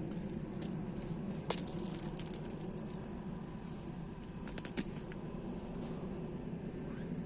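Footsteps crunching over ice-crusted ground after freezing rain, over a steady low background noise, with two sharp cracks, one about a second and a half in and another near five seconds.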